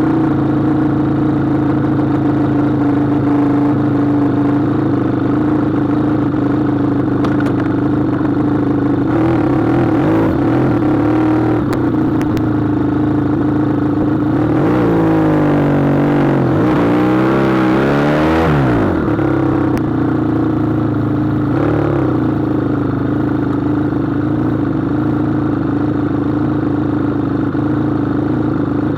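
SBM 400 motorcycle engine running at a steady pitch, with the revs dipping, rising and falling again about halfway through before settling back to the steady note.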